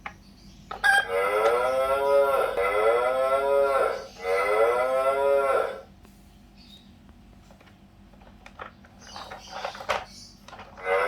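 Fisher-Price Little People Tow 'N Pull Tractor toy playing a recorded cow mooing, in two long moos. A few light clicks of the toy being handled come before and after.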